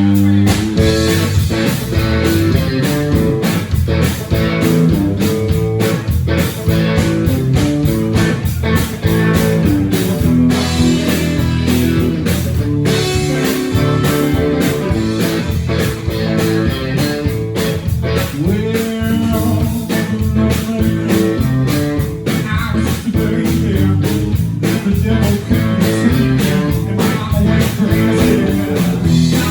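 Live blues-rock band playing the instrumental opening of a song: guitar over bass and drums with a steady beat.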